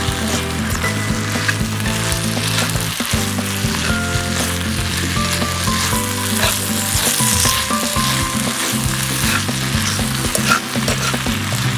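Pepper rice sizzling and frying in a hot pan, with a steady hiss and occasional clicks of stirring.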